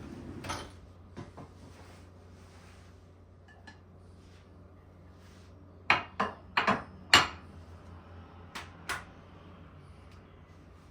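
Dishes and cutlery being handled: light clinks and knocks, with a quick run of sharp knocks about six seconds in and two more a couple of seconds later, over a low steady hum.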